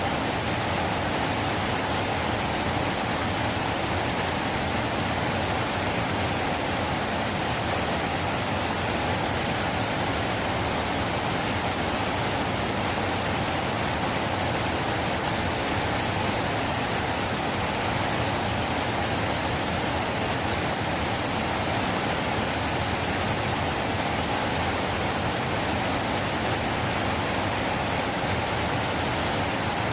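River flowing: a steady, even rush of water with no breaks or changes.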